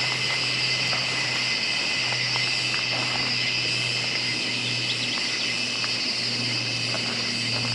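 Small camera drone's propellers humming steadily, with brief dips now and then, over a steady high hiss.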